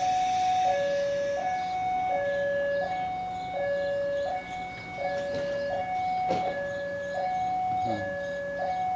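Railway level-crossing warning alarm sounding a two-tone signal that switches between a lower and a higher pitch about every 0.7 s, signalling an approaching train. A single sharp knock sounds about six seconds in.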